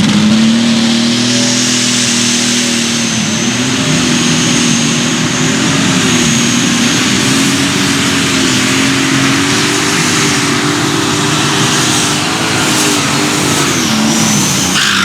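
Turbocharged super stock pulling tractor engine running wide open under load as it drags the sled, with a high turbo whistle over the engine note. Near the end the pitch falls as the engine comes off full power.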